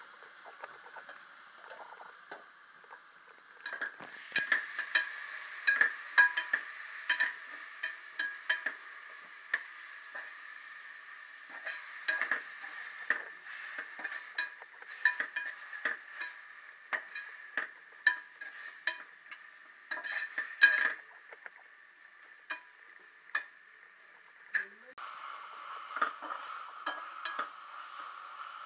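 Onions and masala frying in a stainless steel pot while a spoon stirs them: a steady sizzle with frequent sharp scrapes and clinks of the spoon against the pot. The stirring starts about four seconds in, thins out after about twenty seconds, and leaves a steadier sizzle near the end.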